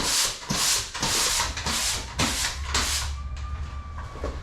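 A broom sweeping a shop floor in brisk, regular strokes, about two a second, each a short scratchy swish.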